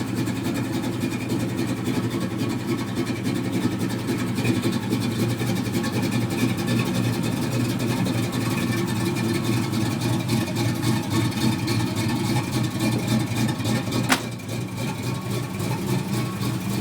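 Small-block 350 V8 in an '85 Chevy S10 idling steadily through dual exhaust with 40-series Flowmaster mufflers. A single sharp knock comes about fourteen seconds in, and the engine sound is a little quieter after it.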